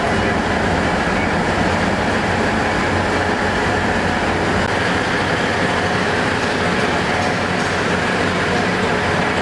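Old railway turntable rotating, a steady mechanical rumble with a faint high whine.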